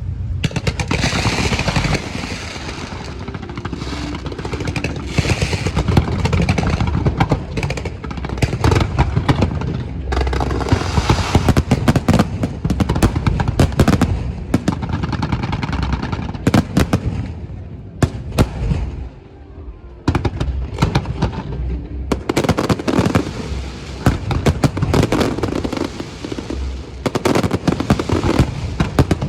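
Fireworks display: a dense, continuous string of bangs and crackles, easing briefly about two-thirds of the way through before picking up again.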